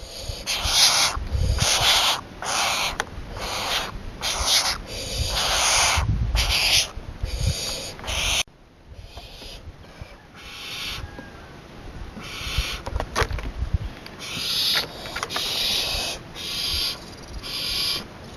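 Barn owl hissing: a run of short, rasping hisses about one a second, softening midway and growing stronger again near the end.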